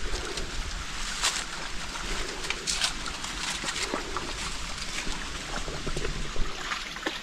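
Small mountain stream flowing steadily over rocks, with a few short splashes as a dog wades in the water.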